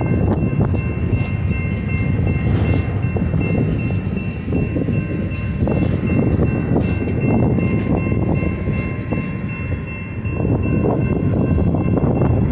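Freight train cars rolling past: a steady rumble with scattered knocks from the wheels, and a thin high ringing tone held throughout.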